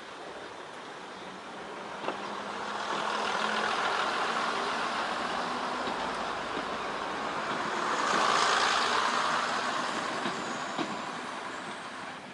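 Train running on the line: a rushing rumble that swells twice, with a faint steady hum under it and two sharp clicks.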